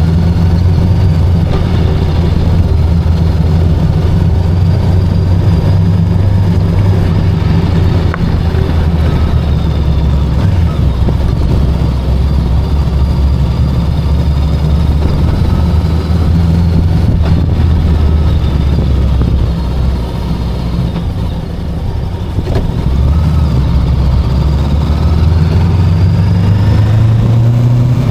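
VOGE 525DSX motorcycle's parallel-twin engine running steadily under way. Its drone eases off about twenty seconds in, then climbs in pitch near the end as it accelerates.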